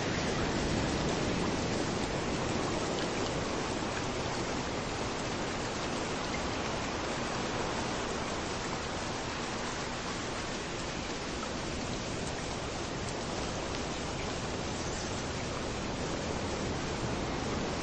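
Steady rain falling at a beach, blended with waves washing in, as a continuous even hiss; a little fuller and louder in the first couple of seconds.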